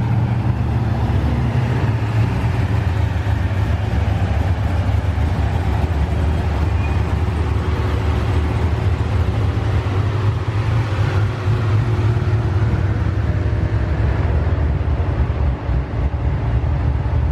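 A car engine running steadily with a deep, constant low rumble and road noise, as a motor vehicle drives along.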